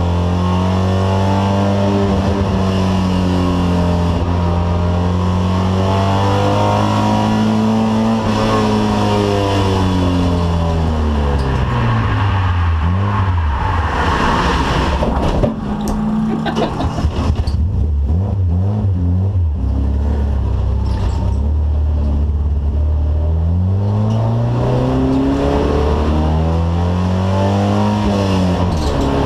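Alfa Romeo car engine running hard. Its revs rise and fall slowly over several seconds, drop sharply about halfway through along with a spell of rough noise, then settle and climb again near the end.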